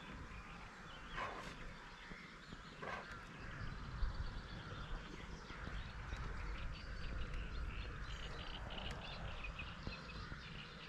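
Small birds chirping and singing over a low rumble of wind on the microphone, with a sharp knock about four seconds in.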